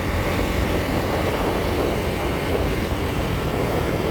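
Motorcycle running steadily while being ridden, a continuous low rumble with no changes in pitch.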